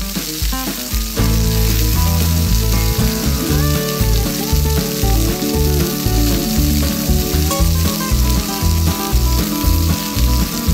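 Hot oil sizzling steadily as skewered snacks coated in crushed instant noodles deep-fry in a small pan, with background music underneath.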